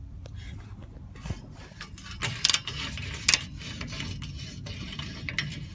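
Hand tools on a seized, rusted oxygen sensor: a wrench and O2 sensor socket clicking and scraping metal on metal as the sensor is worked to break it loose, with two sharper metal knocks around the middle.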